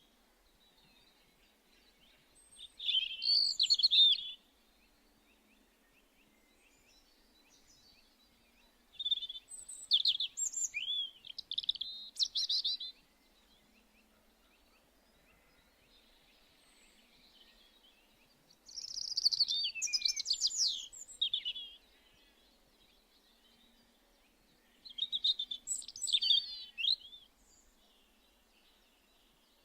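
A songbird singing four separate phrases of quick, high notes, each a few seconds long, with pauses of several seconds between them.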